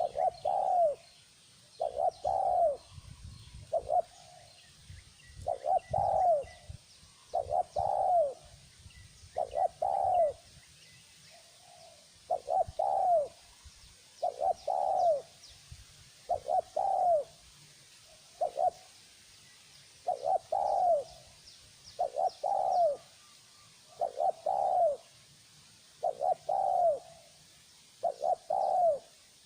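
Spotted dove cooing over and over, one short arched coo phrase about every two seconds, with faint chirps of small birds behind it.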